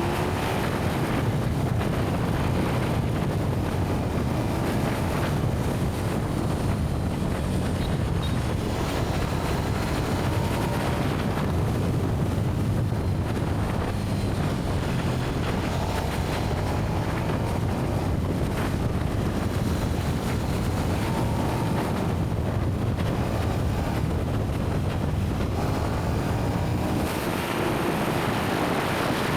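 KTM 1290 Super Duke R's V-twin engine on its stock exhaust, running at a steady cruise, with heavy wind noise on the microphone over it.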